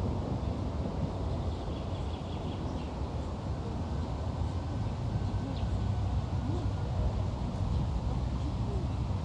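Steady low wind rumble on the microphone outdoors, with a few faint bird chirps.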